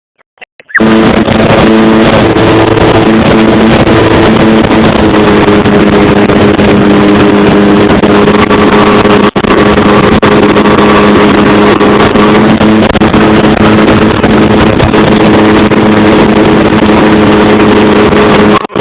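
Sea-Doo XP jet ski engine running at a steady pitch under a loud rush of wind and water. It starts abruptly about a second in, drops out for an instant midway, and cuts off just before the end.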